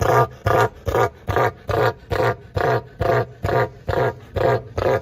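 A bird's harsh call repeated in a steady rhythm, about two and a half calls a second.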